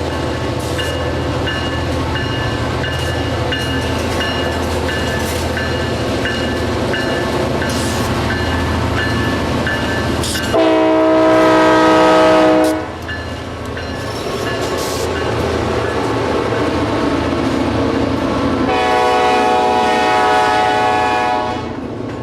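Diesel locomotive running, with short evenly repeated ringing tones about twice a second, like its bell, then two horn blasts of two to three seconds each, one about halfway through and one near the end; the horn is the loudest sound.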